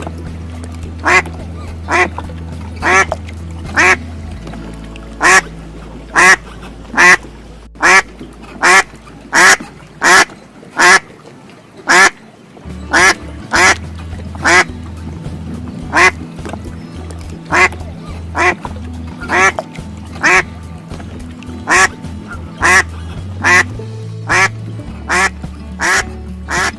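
Domestic duck quacking repeatedly: a long series of short, loud quacks, about one or two a second, over soft background music.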